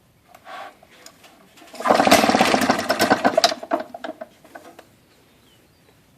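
Pre-1936 Outboard Motor Corporation inboard kicker, a low-RPM two-stroke, being cranked. It fires and runs as a fast string of loud pops for about two seconds, then sputters out. It ran forward that time.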